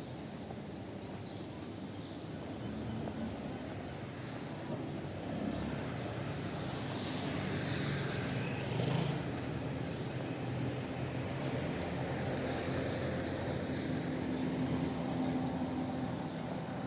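Outdoor promenade ambience: a steady mixed murmur of people and activity, with something passing close by that rises to a peak about nine seconds in and fades again.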